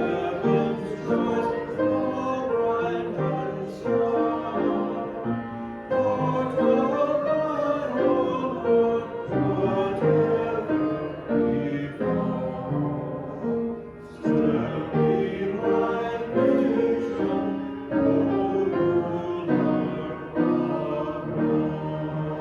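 Hymn sung by several voices with piano accompaniment, the sung notes held long over struck piano chords.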